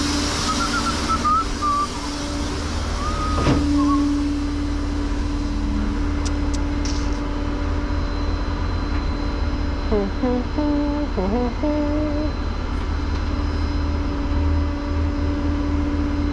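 Vehicle engine running steadily with a low rumble and a constant hum, heard from inside the cab. A few short squeaky, wavering tones come through near the start and again about ten seconds in.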